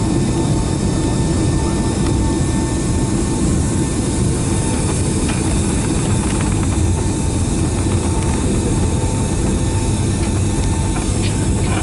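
Steady cabin noise of a Boeing 757-200 with its jet engines running on the ground before takeoff: a dense low rumble with a thin, steady whine above it and a few faint ticks.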